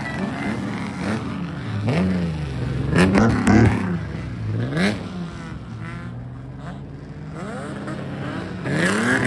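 Several modified kaido-racer car engines revved over and over, their pitch swooping up and falling back in blips over a steadier idling engine, loudest about three seconds in.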